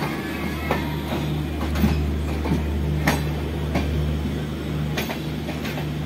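Passenger train coach moving slowly, heard from inside the carriage: a steady low rumble and hum with irregular knocks and rattles of the coach on the track.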